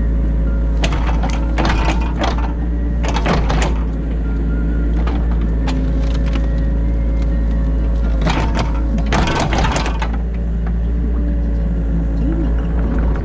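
New Holland E50.2 mini excavator's diesel engine running steadily, heard from inside the cab. Several short bursts of clattering cut through it about a second in, around three seconds, and again from about eight to ten seconds, as the arm and bucket work the ditch.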